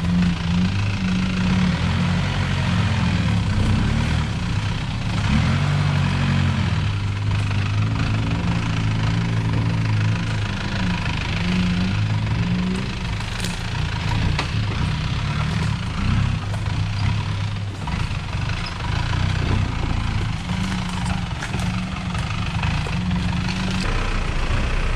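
A 4x4's engine running at low revs, its pitch rising and falling as the vehicle crawls over a rough off-road trail, with scattered knocks and rattles.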